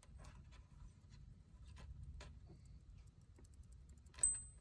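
Small metal pieces handled on a workbench, with faint scattered clicks and ticks. About four seconds in, one sharp metallic clink rings briefly.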